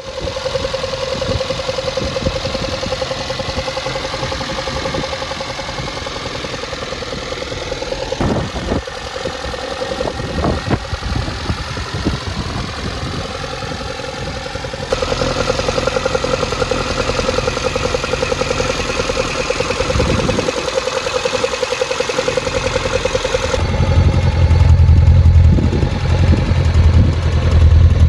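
Toyota Corolla KE70's 4K four-cylinder engine running at a steady idle. About 24 s in it becomes louder and much deeper.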